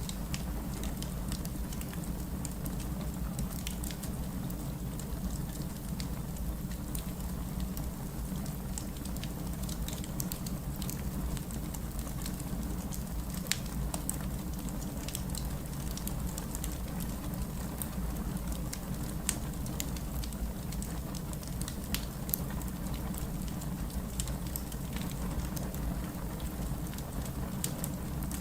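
Steady rain with a crackling wood fire: a constant low rumble of rain and fire under frequent sharp pops and crackles scattered throughout.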